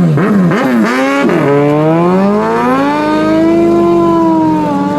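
Superbike engine revved in several quick throttle blips, then a long steady climb in revs that levels off and holds high.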